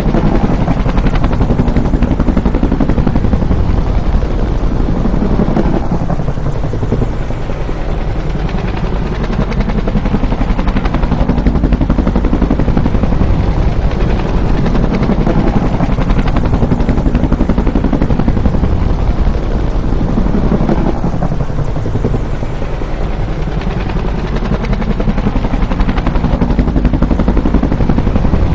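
Bell UH-1 Huey helicopter's main rotor beating continuously and loudly, with a sweeping swell in the sound that recurs about every five seconds.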